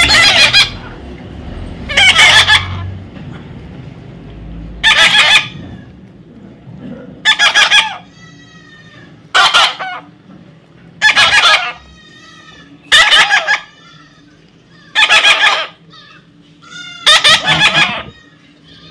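Parrot screeching: nine loud, harsh squawks at about two-second intervals, with fainter chattering whistles between some of them.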